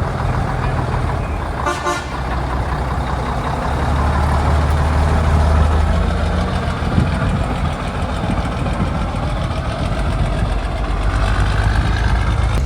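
Heavy truck engine running with a steady low rumble, and a short horn toot about two seconds in.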